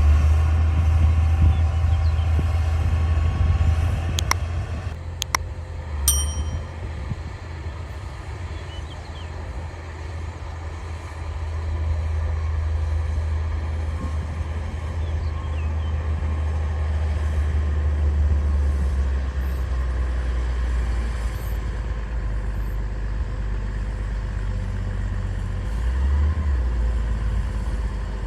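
Diesel engine of a D60 bulldozer running steadily with a low drone, easing off and then building again a little under half way through. A few sharp clanks about four to six seconds in.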